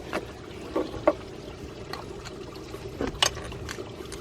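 A wrench tightening a copper compression fitting on a gauge hose: a few scattered sharp metal clicks and clinks over a steady background hum.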